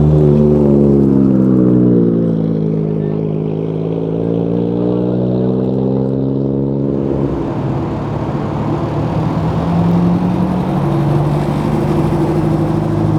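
Car engine running, its pitch dropping and then rising again as the revs change, then settling into a steadier, rougher note about seven seconds in.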